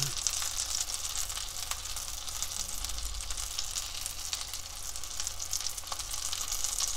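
Egg-battered oyster pancakes frying in oil in a pan: a steady high sizzle with scattered small crackles and pops.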